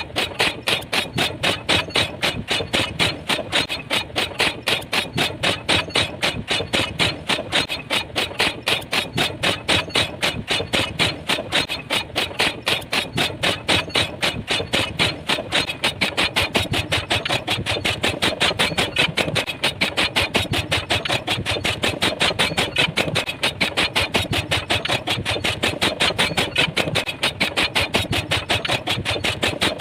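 Pile driver hammering with a fast, steady run of regular blows, several a second, that keeps up without a break.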